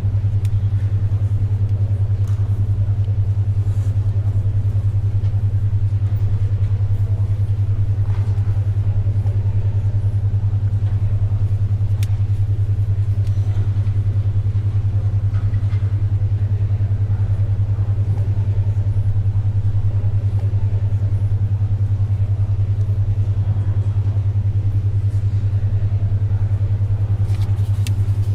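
A 10.2 Hz alpha-wave brainwave track: a loud, steady low hum pulsing rapidly and evenly. Under it is faint library background noise with a few soft page-turning and pencil-writing sounds.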